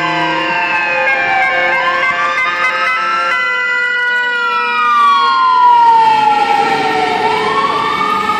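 Emergency vehicle siren wailing, its pitch slowly falling and rising again in long sweeps. Steady pitched tones sound along with it and cut off about three seconds in.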